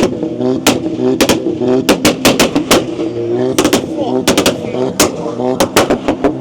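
A car's engine revving hard while its exhaust pops and bangs: a rapid, irregular string of sharp, very loud cracks over the rising and falling engine note.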